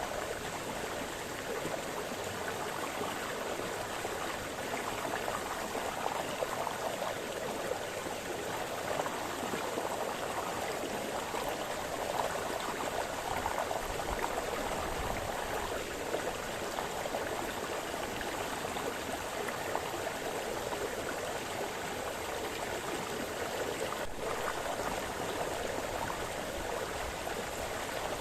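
Small forest brook splashing and burbling over stones, a steady, continuous water sound.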